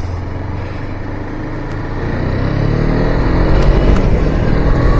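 Motorcycle engine heard from the rider's seat, pulling away and accelerating: the engine note climbs in pitch and gets louder from about two seconds in, over low wind and road noise.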